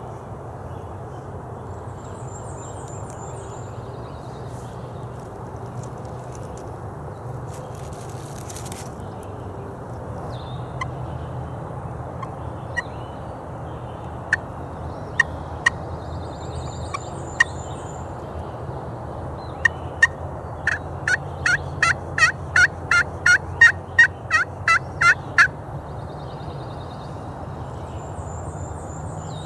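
Hen turkey calling worked by a hunter on a mouth or friction call: a few scattered single clucks, then a run of about fourteen loud, evenly paced yelps lasting some five seconds, calling to a gobbler. A small songbird's short high trill comes three times over steady low background noise.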